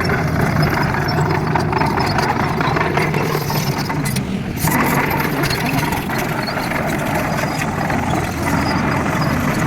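Excavator's diesel engine running steadily with a constant low hum, briefly easing a little before halfway.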